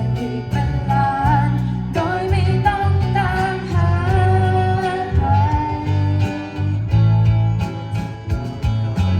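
A band playing a pop song live: a singer holds a long, gliding melodic line over guitar and bass. Regular beats run underneath.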